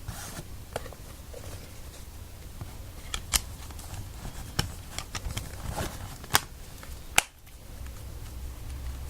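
An HTC Wildfire S smartphone handled with its back cover removed: a scattered series of small, sharp plastic clicks and taps, the sharpest about seven seconds in.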